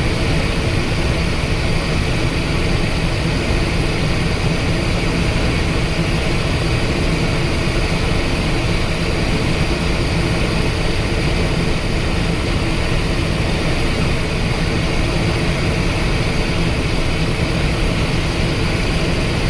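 Steady cockpit noise of a Cessna Citation XLS business jet, an even, unchanging din of its jet engines.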